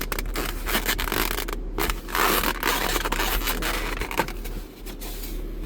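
Close rustling and scraping of a takeout food container or wrapper being handled, with scattered clicks.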